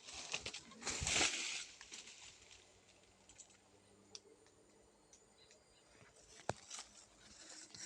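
Rustling and crackling noise, loudest about a second in, with scattered sharp clicks and another stretch of rustling near the end.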